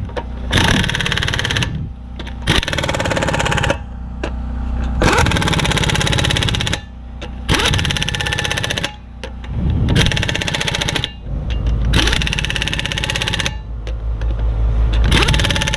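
Impact wrench tightening a wheel's lug nuts in about seven short bursts of rapid hammering, each a second or two long, with brief pauses as it moves from nut to nut.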